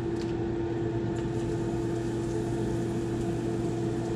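Steady machine hum, like a fan or motor, under a faint even sizzle of breaded fish frying in oil.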